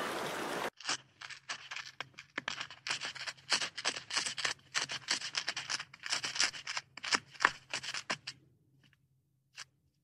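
A nutria (coypu) crunching and gnawing food held in its paws: quick sharp crunches, several a second, that stop about eight seconds in. Under a second in, a stretch of outdoor water noise with a faint bird whistle cuts off suddenly.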